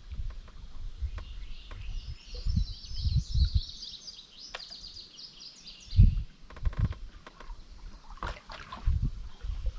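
A songbird sings a rapid, high warbling phrase from about two to five seconds in. Underneath are low thumps and knocks from the canoe and paddle on the river, the loudest thump about six seconds in.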